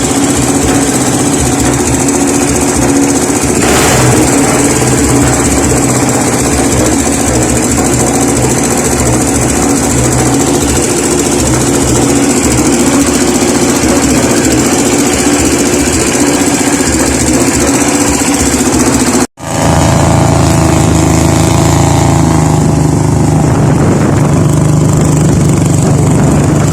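Honda GX390 single-cylinder four-stroke engine on a flat-transom boat running steadily. About 19 seconds in the sound cuts out for an instant and comes back with a lower, steadier hum.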